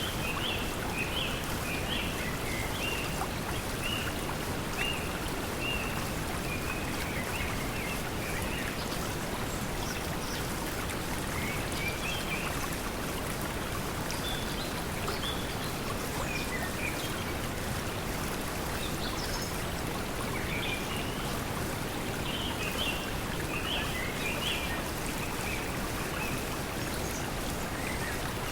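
Steady pink noise mixed with flowing stream water, with small birds chirping in short bursts on and off throughout.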